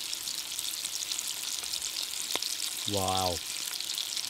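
Lamb kidney dry fry sizzling in a kadai over a wood fire: a steady crackling hiss with fine pops. A man's voice says "wow" about three seconds in.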